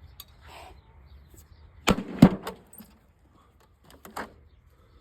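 A homemade battle axe striking a mini fridge's metal cabinet: two loud bangs about a third of a second apart, about two seconds in, then a few fainter knocks near the end.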